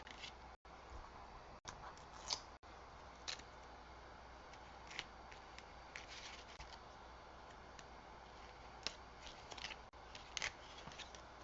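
Faint, scattered small clicks and rustles of paper craft pieces and foam adhesive being handled on a work table.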